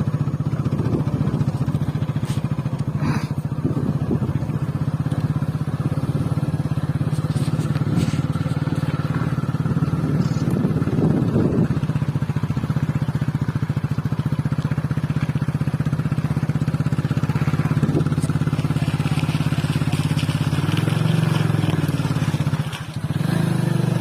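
Motorcycle engine running steadily under way. Near the end its sound briefly drops and then picks up again.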